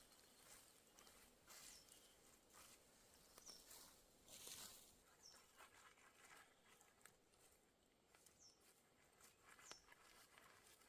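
Quiet forest ambience: faint scattered crunches and rustles, with a few short high chirps from a bird.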